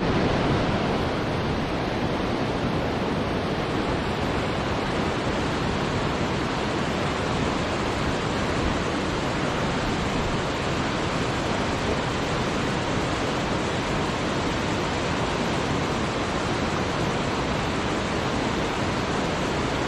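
Steady, even rush of falling or running water, with no single drops or splashes standing out; it starts at a cut after a brief silence.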